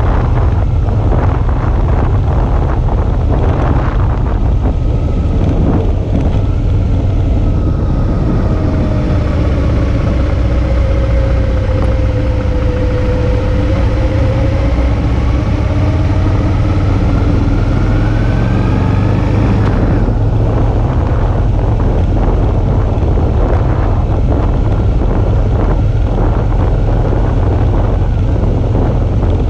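Suzuki V-Strom 650's V-twin engine running under way with wind rushing over the camera microphone. Partway through, the engine note drops and then climbs again as the revs come back up.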